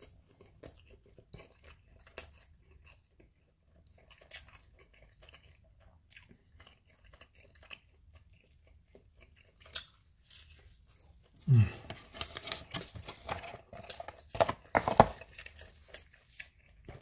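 A person chewing a mouthful of pancake sausage, egg and cheese sandwich: faint wet chewing clicks at first, then about two-thirds in a brief low falling hum followed by louder, noisier chewing.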